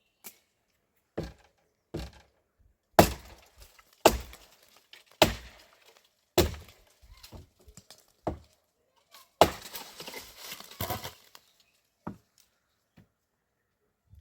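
Stones knocked and set against one another in dry-stone building: a series of sharp clacks about once a second, with a longer stretch of scraping and rattling about two-thirds of the way through.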